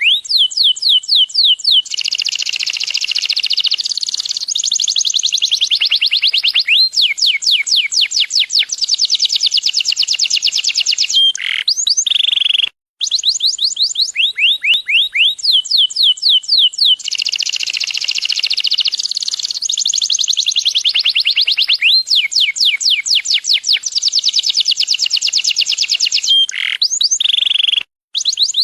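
Domestic yellow canary singing a long, high song of fast trills of falling whistles alternating with denser rolled passages. The song stops briefly about halfway through and again near the end, and the same sequence of phrases repeats after each break.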